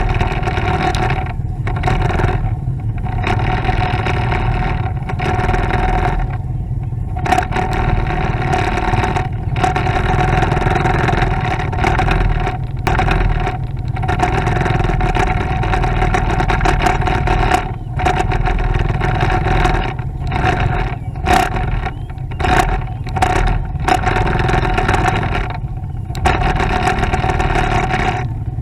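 Motorcycle running on the road, its engine a steady hum under wind and road noise, with short dips in the sound every few seconds.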